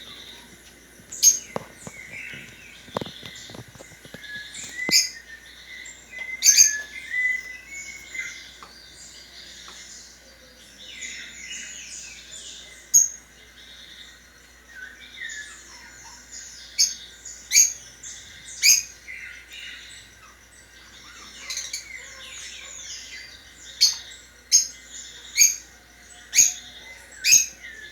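Several small birds chirping and twittering at once, with overlapping calls throughout. Sharp, loud single chirps stand out at intervals and come about once a second near the end.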